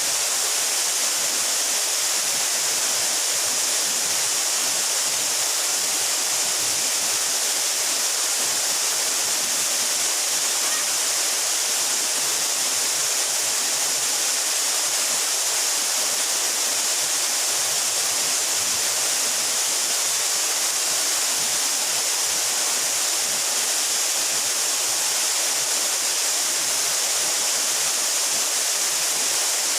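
A 12-metre mountain waterfall with water falling onto water, giving a steady, even rush that is brightest in the high hiss and does not change.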